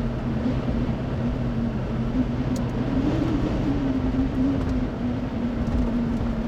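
Road noise inside a moving car: a steady rumble of tyres and engine with a droning hum that wavers slightly in pitch.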